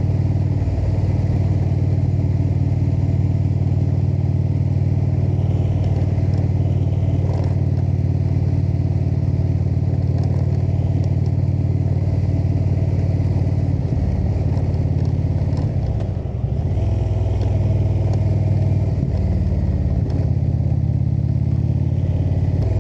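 Indian V-twin motorcycle engine running at a steady cruise, heard from on the bike. About two-thirds of the way through the engine note shifts and dips briefly, as in a gear change or a roll-off of the throttle, then picks up again.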